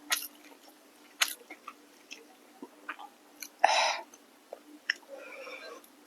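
A person chewing food close to the microphone, with scattered wet mouth clicks and a louder brief rush of noise a little past the middle.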